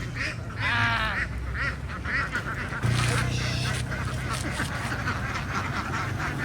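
A flock of ducks quacking, many short calls overlapping in quick succession, over a low steady hum that grows louder about three seconds in.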